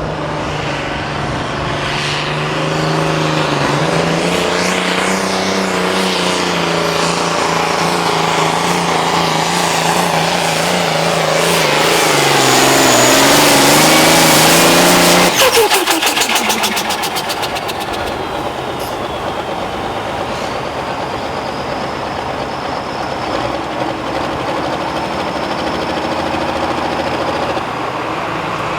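Super stock pulling tractor's turbocharged diesel engine running flat out under load, its note wavering and growing louder until about halfway through, when the throttle is cut and the engine speed falls away sharply. It then runs on at a lower, steadier speed with a faint high whine.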